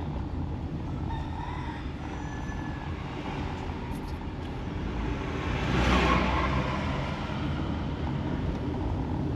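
A car driving on the road, with engine and tyre noise steady throughout. The noise swells louder about six seconds in, then eases.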